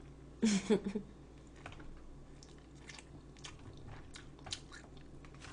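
Close-miked chewing and mouth sounds of someone eating, with many faint, irregular little clicks and crunches. A brief voiced sound comes about half a second in.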